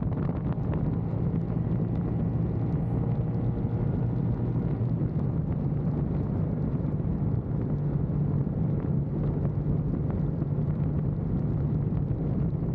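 Motorcycle engine running at a steady cruise on the freeway, a constant low drone with wind noise on the microphone.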